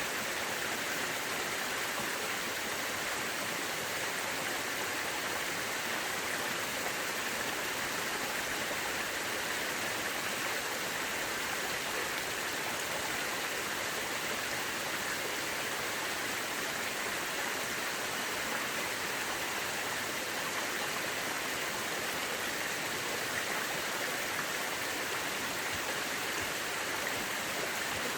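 Mountain river rushing steadily over rocks: a constant, even hiss of flowing water with no breaks.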